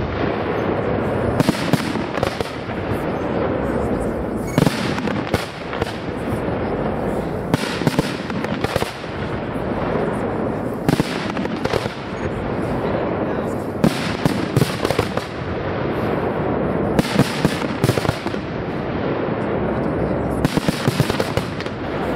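Aerial fireworks shells bursting one after another, with sharp bangs every second or two over a continuous crackling rumble.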